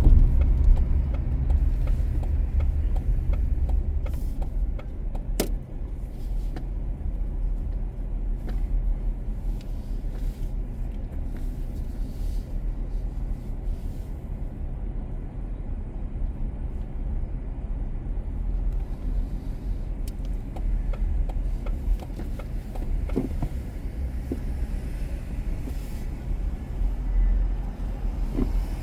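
Steady low rumble of a car driving, road and engine noise. There is one sharp click about five seconds in and a few faint ticks later.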